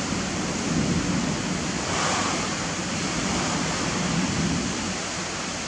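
Rain falling steadily outside, an even hiss that does not let up.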